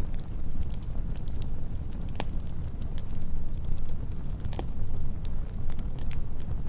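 Campfire burning with a steady low rumble and scattered sharp crackles and pops of burning wood. A cricket chirps about once a second.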